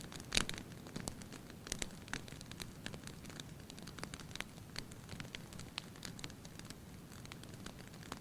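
Wood fire in a fireplace crackling, with irregular sharp pops and snaps over a low steady hiss of burning; a burst of louder pops comes near the start.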